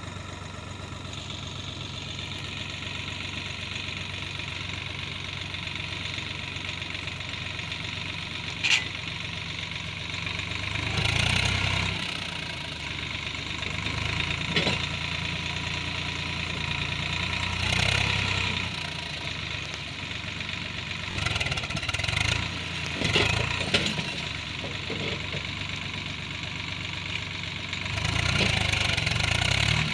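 Swaraj 744 tractor's three-cylinder diesel engine running steadily and surging louder several times, about a third of the way in, again a little later, and for a sustained stretch near the end, as it works to pull an overloaded sugarcane trolley. A single sharp knock about nine seconds in.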